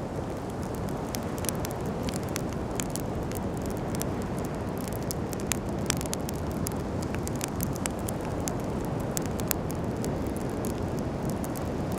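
Wood campfire crackling, with many quick sharp pops and snaps scattered throughout over a steady low rushing background.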